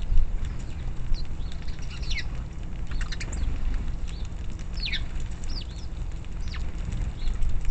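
Small birds chirping: short, quick chirps that slide down in pitch, scattered about once a second, over a steady low rumble.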